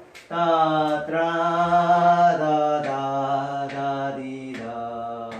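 A man singing a passage of the melody on held syllables, a few long sustained notes stepping down in pitch.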